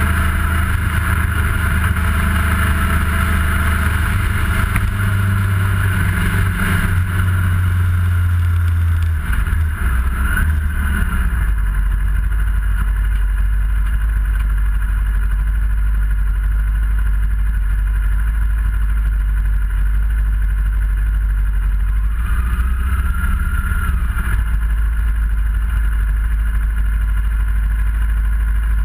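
Kawasaki ER-6f's parallel-twin engine running steadily under way, with wind rush on the bike-mounted camera. About a third of the way in the engine note drops lower as the bike slows, and it stays low as the bike comes up to a junction.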